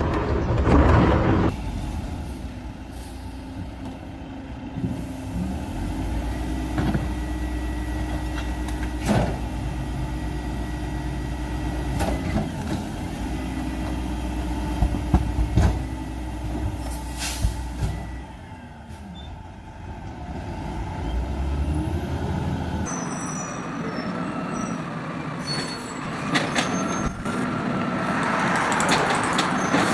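Garbage truck running with a steady low engine drone, broken by scattered sharp knocks and clanks. About two-thirds of the way through, the sound changes abruptly, and a rushing noise builds near the end.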